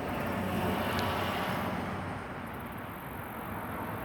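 Road traffic noise: a steady rush of passing vehicles that swells about a second in and then eases off.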